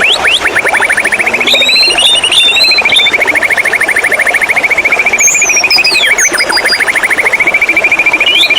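White-rumped shama song: a long, fast trill of rapidly repeated notes held near one pitch, with shorter whistled slurs above it about a second in and again past the middle.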